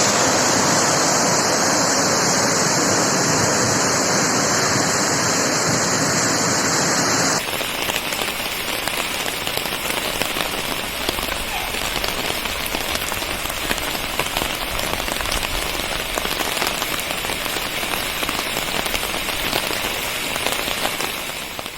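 Heavy rain falling steadily as a dense hiss. About seven seconds in the sound changes abruptly to a duller, lower rain noise.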